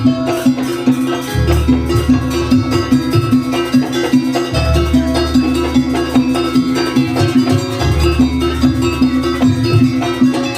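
Live Banyuwangi jaranan ensemble music: a steady, quick, repeated melodic figure of short pitched notes over a deep bass layer that shifts every few seconds.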